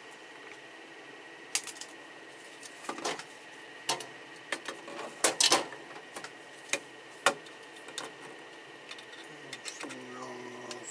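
Sharp plastic clicks and snaps at irregular intervals as a 3D-printed eSun ePLA HS part is handled and its support material is broken away, loudest in a quick cluster a little past halfway. A steady faint high tone runs underneath.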